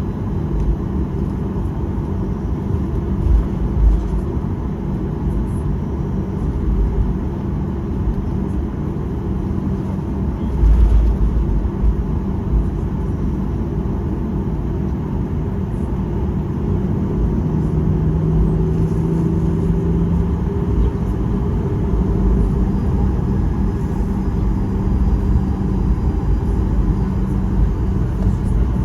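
Cabin noise of a Boeing 737-800 on the ground before takeoff: a steady low rumble of the engines at idle, with two short thumps about 4 and 11 seconds in.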